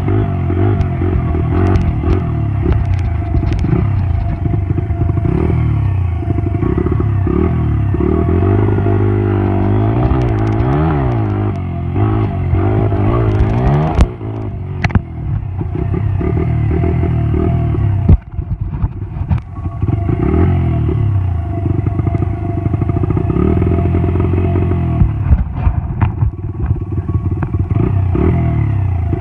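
Small dirt bike engine revving up and down over and over as it is ridden, with two sharp knocks about halfway through.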